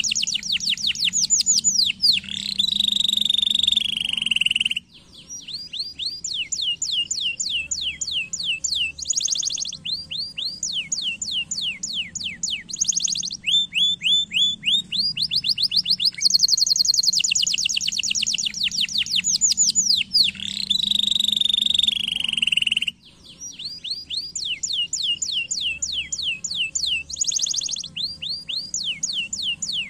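Domestic canary singing a long song of rapid trills, each a fast run of repeated notes, with downward swoops and short pauses between phrases. The same song sequence repeats about every 18 seconds, as a looped recording.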